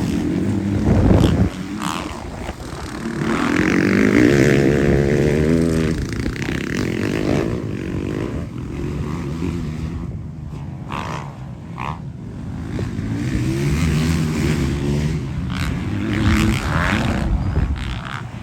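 Motocross bikes racing, their engines revving up and down as they pass, with swells in loudness about four seconds in and again near the end.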